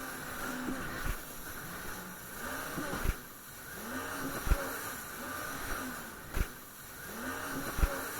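Jet ski engine running at speed, its pitch rising and falling every second or two as the hull rides over the waves, with a thump of the hull slapping the water about every one and a half seconds.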